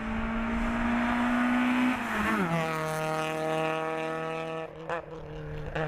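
Hill-climb race car engine running at high revs, its note climbing and then dropping sharply in pitch a little over two seconds in, as when the car passes by, before holding a steady lower note. Two short, sharp sounds come near the end.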